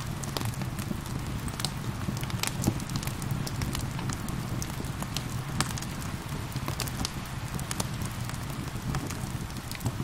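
Wood fire crackling and popping, with many sharp irregular snaps, over a steady wash of falling rain and a low rumble.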